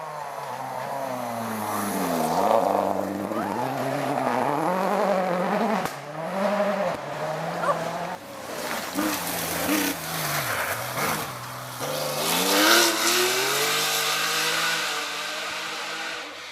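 Rally car engine revving hard, its pitch climbing and dropping again and again through gear changes and lifts off the throttle, with tyre noise that grows louder and peaks about three-quarters of the way through as the car passes closest.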